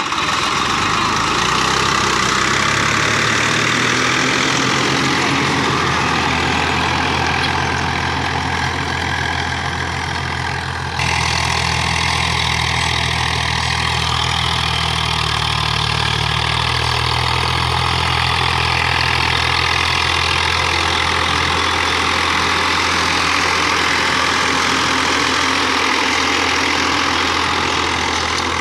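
Tractor diesel engine running steadily at a low, even speed, with an abrupt change in its sound about eleven seconds in.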